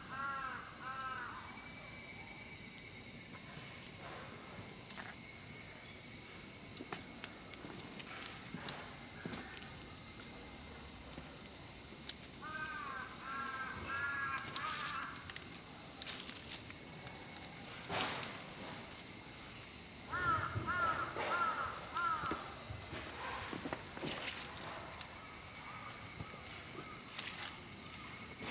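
A crow cawing in three short runs of about five caws each: near the start, about halfway through, and again about two thirds in. A steady high-pitched insect drone runs underneath, with occasional sharp clicks.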